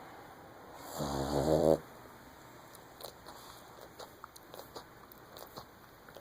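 Pug snoring: one loud snore lasting under a second about a second in, followed by faint scattered clicks.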